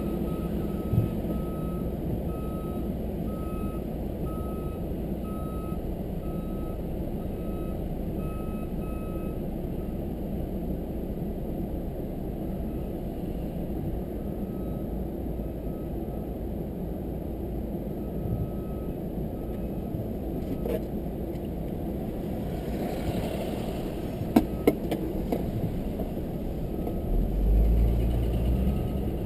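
Steady low road and engine rumble of a car driving, with a reversing alarm beeping about one and a half times a second for the first nine seconds and again briefly later on. There are a couple of sharp clicks about three-quarters of the way through, and the rumble swells near the end.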